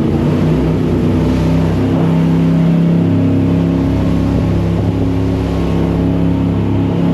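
Jet boat's engine running at steady high revs under a rushing wash of water, heard from on board.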